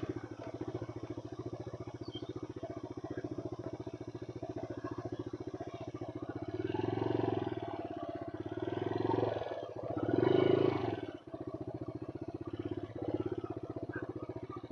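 150 cc single-cylinder motorcycle engine running while riding. It swells louder three times in the middle as the throttle is opened, with a brief dip about 11 seconds in.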